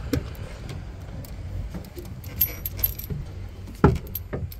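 Keys jangling and clicking as something is unlocked, with a sharper knock about four seconds in, over a low steady hum.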